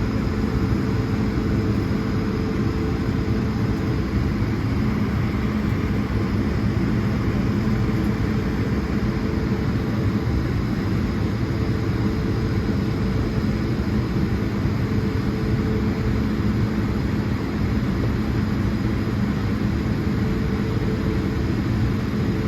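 Steady cabin noise inside an Airbus A220-100 heard from a window seat: the jet's Pratt & Whitney PW1500G geared turbofan engines running at a constant setting, a steady low hum under an even rush of air noise.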